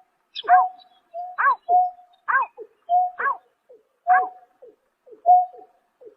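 Greater painted-snipe calling: a steady string of short, repeated notes, each a brief even tone joined to a quick sweeping note, about one to two a second.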